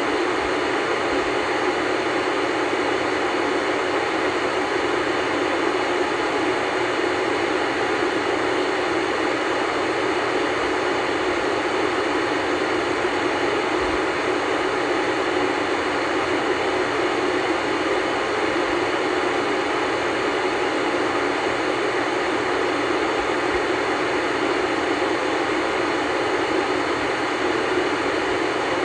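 Steady hiss of static from an old black-and-white tube TV's speaker, tuned to no station. An even noise, level throughout, with little bass.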